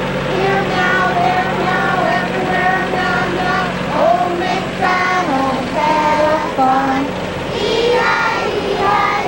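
A group of young children singing together in unison, their voices holding and sliding between notes, over a steady low hum.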